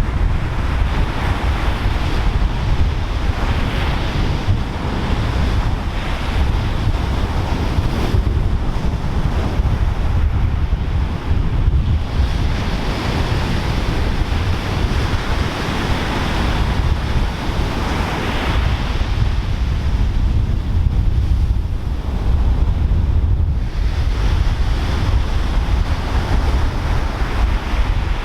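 Pacific surf breaking and washing ashore in waves that swell and fade every few seconds, with a steady low rumble of wind buffeting the microphone.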